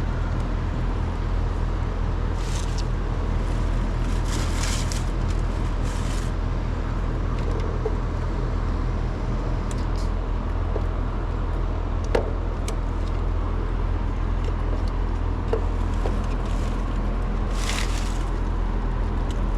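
Steady low machine hum, with scattered small clicks and short rustles of wires being handled and fastened.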